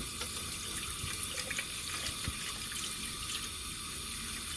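Vinegar poured from a bottle into a canister of stove parts, over the steady hiss of a stove burner running.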